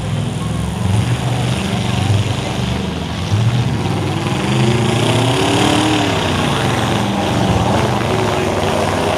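Demolition-derby stock trucks' V8 engines running loud and revving, the pitch rising and falling about halfway through as the trucks rev up and back off.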